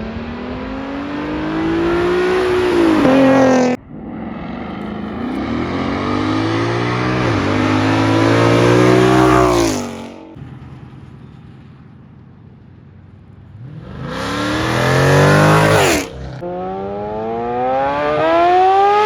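Several cars or motorcycles accelerating hard one after another, each engine's pitch climbing steadily as it revs out, with a shift and fresh climb in one run. The sound cuts off abruptly twice between runs.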